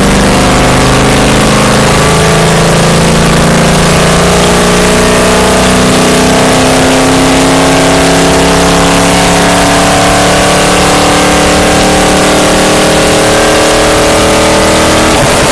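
Stock car's V8 engine running hard at high revs, heard from inside the car. Its pitch climbs slowly as the car accelerates out of the turn and down the straightaway, over a steady rush of road and wind noise.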